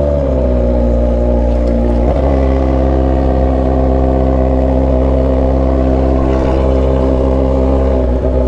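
Kawasaki Z900 RS inline-four running at steady revs through an aftermarket stainless-steel 4-into-1 header and short 'canela seca' end pipe, a loud exhaust note. Its pitch settles slightly at the start and dips briefly about two seconds in.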